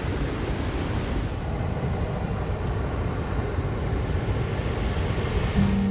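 Waterfall rushing, a steady roar of falling water, with wind buffeting the microphone.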